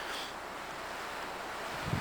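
Steady wind rushing through pine trees.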